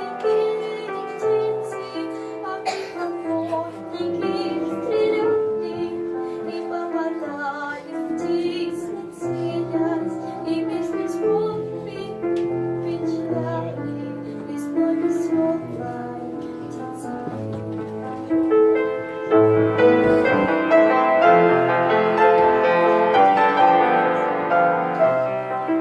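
A young girl singing a solo song over instrumental accompaniment. About three-quarters of the way through, the music swells louder and fuller.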